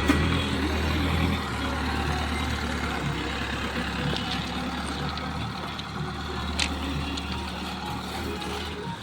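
A heavy engine running with a steady low rumble, a large diesel engine such as a locomotive or heavy vehicle, with faint clatter over it.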